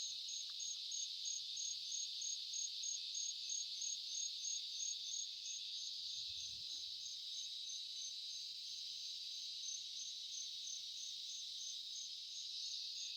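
Chorus of insects in the woods, a steady high-pitched trilling with an even, rapid pulsing above it.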